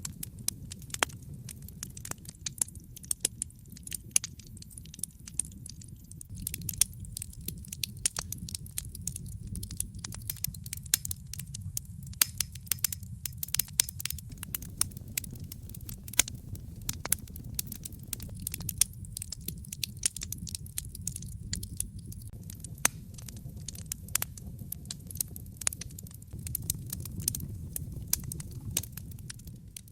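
Wood fire crackling in a fireplace: a steady low rumble of flame with many sharp, irregular pops and snaps.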